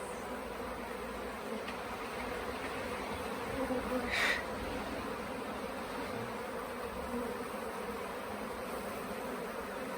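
A swarm of honey bees buzzing steadily in a mass hum as they are coaxed into a nuc box. A brief high-pitched squeak sounds about four seconds in.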